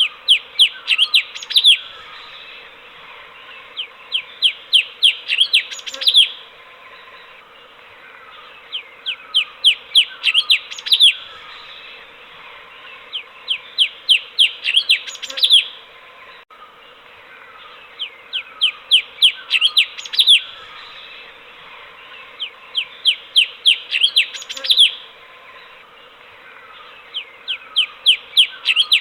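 Cucak cungkok, a bulbul, singing in repeated phrases. Each phrase is a quick run of eight to ten sweeping whistled notes, ending on a louder note. The phrase comes back about every four to five seconds, six times, over a steady hiss.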